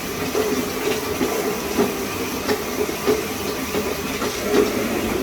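Commercial high-pressure shower head, its water restrictor removed, spraying water in a steady hissing rush, with scattered small clicks and knocks through it.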